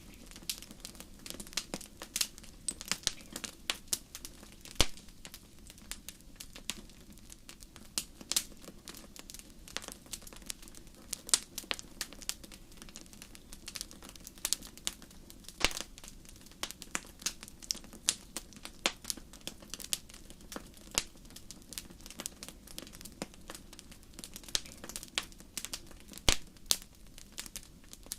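Campfire burning: irregular sharp crackles and pops of burning wood, several a second, over a low steady hiss of the flames.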